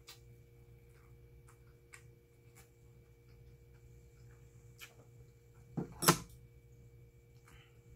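A person chewing a mouthful of rice with the mouth closed: scattered soft mouth clicks, then a louder short knock about six seconds in.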